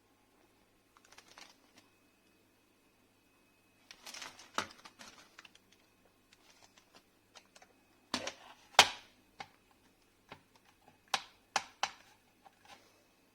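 Irregular sharp clicks and knocks of hard objects being handled, in clusters with short quiet gaps. The loudest knock comes just before the 9-second mark.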